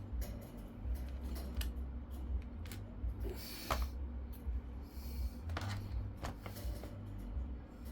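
Small clicks, taps and brief scrapes of a screwdriver and screws being worked into a laptop's plastic case.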